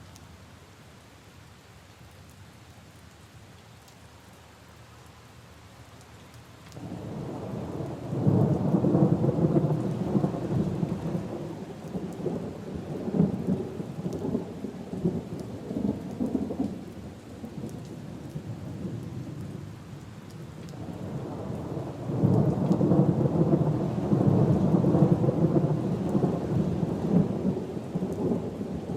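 Steady rain falling on leaves and puddles, with two long rolls of thunder. The first rumble builds about a third of the way in and dies away. The second starts about two-thirds of the way through and is still rolling at the end.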